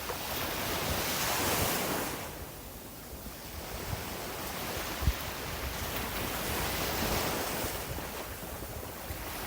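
Sea waves breaking and washing up the beach, the surf swelling and falling back twice, with wind on the microphone and a brief low thump about halfway through.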